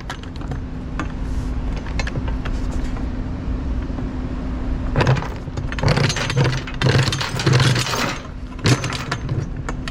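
Steel tie-down chains clanking and rattling as they are handled, in bursts about halfway through, twice more a second or two later, and once more near the end, over a steady low hum.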